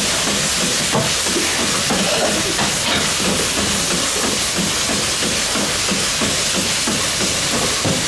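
Goat milking machine running: a steady vacuum hiss with a quick, even pulsing underneath from the pulsators.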